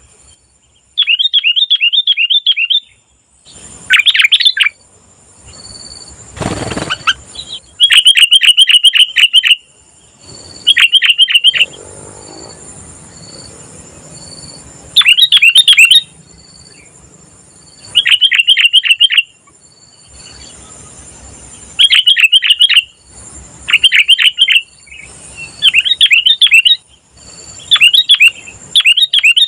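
Sooty-headed bulbul (kutilang) singing: bursts of rapid, repeated chirps, each about a second long, coming again and again with short pauses between.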